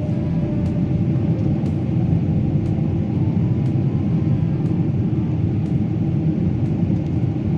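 Steady low rumble of a jet airliner heard from inside the cabin, with the engines running and faint steady hums above the roar.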